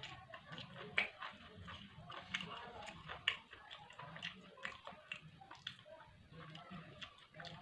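Close-miked eating: a person chewing and biting food with many small mouth clicks, and two sharper bites about a second in and just past three seconds.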